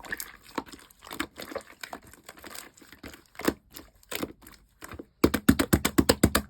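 Yellow pearl slime being squished and played with, giving irregular sticky clicks and pops, then a fast run of crackling pops about five seconds in.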